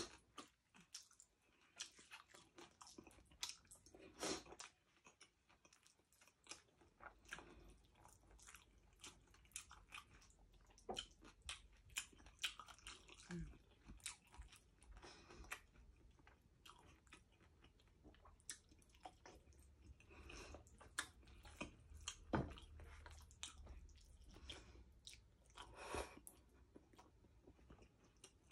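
A person chewing and crunching a mouthful of crispy pata (deep-fried pork hock) and rice, heard as quiet, irregular crunches and mouth clicks, with a few louder crunches along the way.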